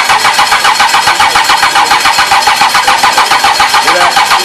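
2.4-litre DOHC engine turning over on its starter motor without firing: a steady, even cranking rhythm of about five pulses a second. It is a strong crank, with oil pressure building.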